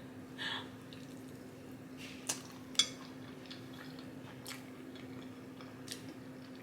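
Chewing close to the microphone: faint mouth sounds with a few scattered sharp clicks over a steady low hum.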